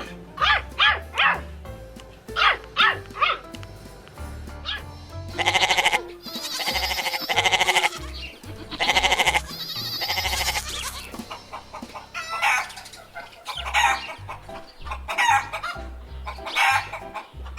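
Repeated animal calls: quick groups of three short calls, then several longer pulsed calls, then more short calls, over background music.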